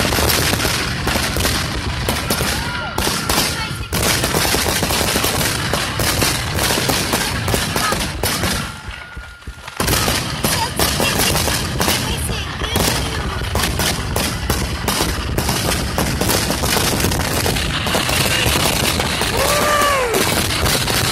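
Fireworks going off in a rapid, continuous barrage of bangs and crackles, with a brief lull about nine seconds in before the volley resumes.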